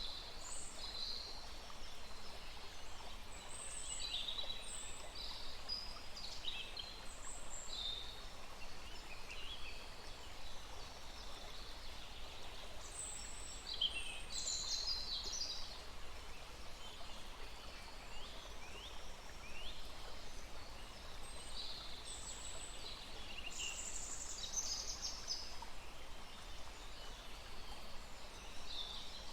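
Several birds calling and singing in short chirps and trills, many at once in places, over the steady rush of a small stream.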